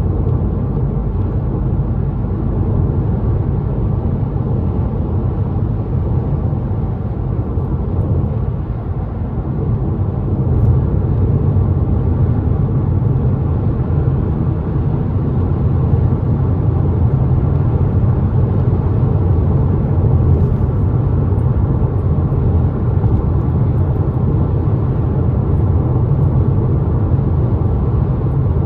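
Steady low rumble of a car driving, with road and engine noise heard from inside the cabin; it grows a little louder about ten seconds in.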